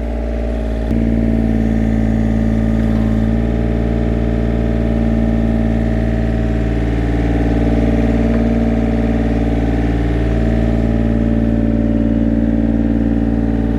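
An engine running steadily, picking up a little about a second in and again a couple of seconds later.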